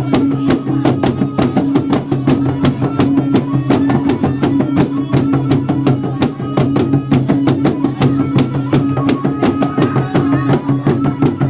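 Traditional North Maluku dance music: fast, steady drumming with many sharp strikes a second over a sustained low ringing tone.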